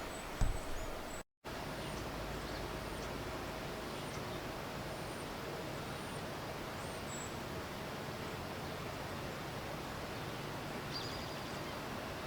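Outdoor ambience: a steady background hiss with faint, short, high bird chirps repeating now and then. There is a low bump on the microphone about half a second in, and the sound drops out briefly just after a second in.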